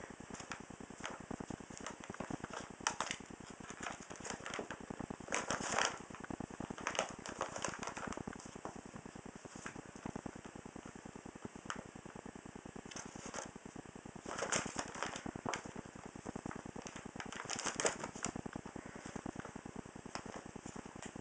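Paper bag crinkling and rustling as kittens tussle in and around it, in irregular louder bursts over a fast, faint ticking.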